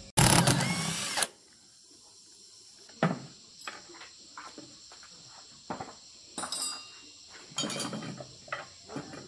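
A power tool runs in one short burst of about a second, then stops. Scattered knocks and clicks follow.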